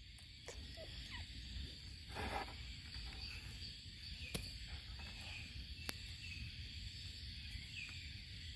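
Night-time outdoor ambience: a steady high-pitched insect chorus over a low rumble, with a few sharp clicks and short chirps and a brief rustle about two seconds in.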